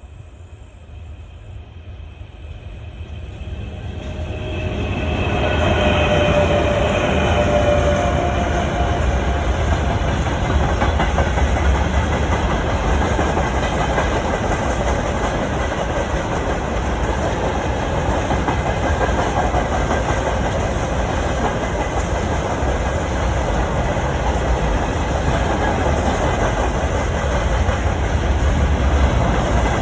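Heavy freight train approaching at full speed. Its sound swells over the first five seconds into a steady, loud rumble of wagons rolling past.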